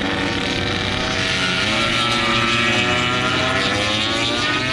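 MotoGP racing motorcycle engines at high revs during practice starts, their whine dipping in pitch and climbing again near the end.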